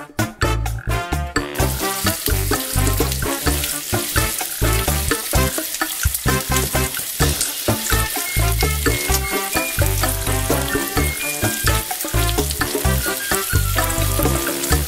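Vegetables frying in hot oil in a wok, with a steady sizzle that starts about a second and a half in as they hit the oil, over background music with a steady beat.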